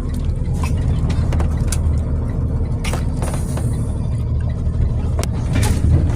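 Truck driving along, heard from inside the cab: a steady low road and engine rumble with scattered light knocks and rattles.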